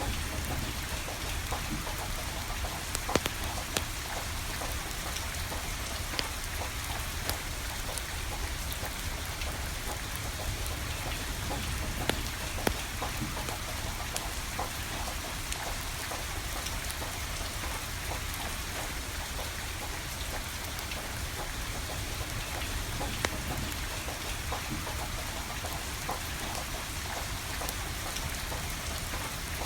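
Steady rain falling, with a wood fire crackling and giving off sharp pops now and then, a few louder ones about 3, 12 and 23 seconds in.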